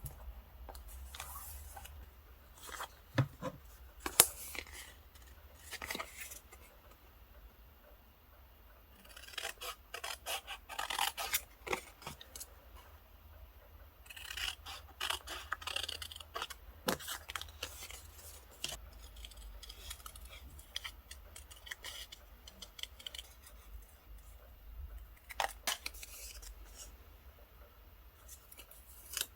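Scissors cutting paper in several runs of quick snips, with paper rustling and a few sharp clicks or taps in between.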